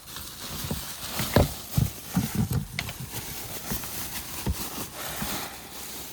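Rustling and crinkling of wrapping as items are handled in a box, with several irregular knocks and bumps of objects being set down and moved.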